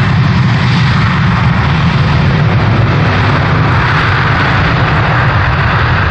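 Airbus A330-200 jet engines at takeoff power, a loud steady jet noise with a deep rumble, its hiss growing brighter about four seconds in.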